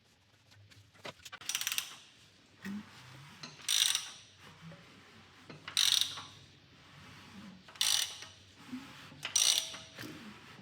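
Hand socket ratchet clicking in five short bursts, about one every two seconds, as it is swung back between strokes during valvetrain work on an LS3 V8.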